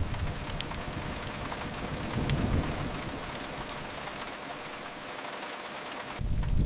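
Steady rain hiss from rain falling against a window, with a low rumble that fades out about halfway through and a single sharp crackle a little after two seconds in.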